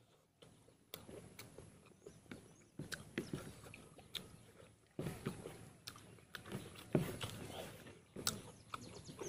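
Close-up mouth sounds of a man chewing pork intestine and rice eaten by hand: irregular wet smacks and clicks of chewing.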